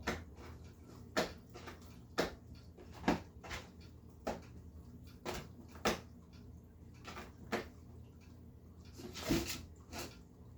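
A cat chewing, with sharp, irregular crunching clicks about once a second. He chews from the inside of the mouth, which the owner takes as a sign that he is losing his teeth.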